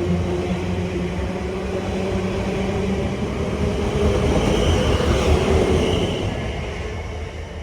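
Passenger train running past at close range. It gets louder to a peak about five seconds in, then fades away.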